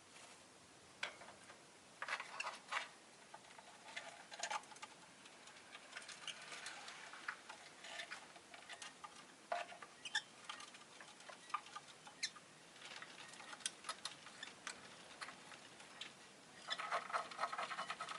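Rosy-faced lovebirds making soft, scattered short chirps and clicks, with a denser run of chirping near the end.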